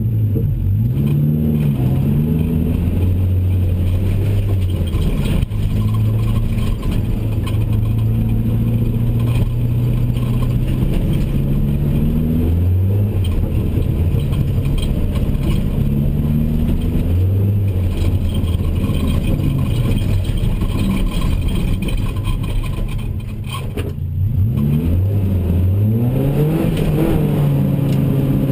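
BMW E30 318i's four-cylinder engine, heard from inside the cabin, revving hard and easing off over and over, its pitch climbing and dropping as the car is driven quickly through a tight course. Shortly before the end it eases off briefly, then revs up again.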